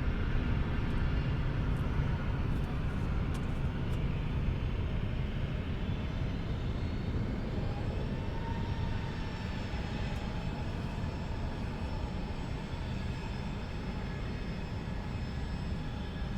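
Boeing 737-800 jet airliner's engines at takeoff power, a steady jet rumble with a faint whine, slowly fading as the plane moves away.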